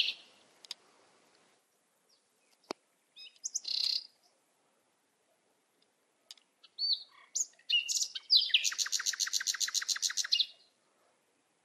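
Birds chirping with short high calls, then a rapid trill of about ten notes a second that lasts about two seconds.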